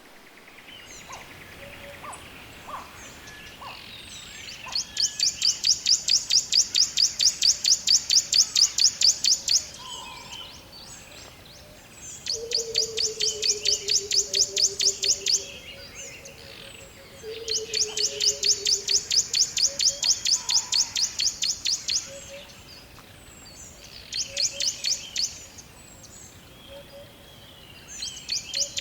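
Birds calling: a loud, fast, high-pitched pulsing trill of about eight notes a second comes in bouts of a few seconds, five times, over softer scattered chirps. A low drawn-out whistle gliding slightly downward sounds twice in the middle.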